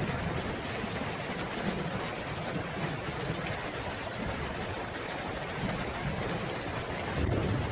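Steady rain falling, an even hiss, with a low rumble of distant thunder rolling underneath that swells louder near the end.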